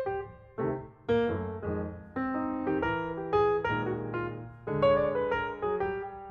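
Background music: a piano playing a gentle melody over chords, with notes struck one after another.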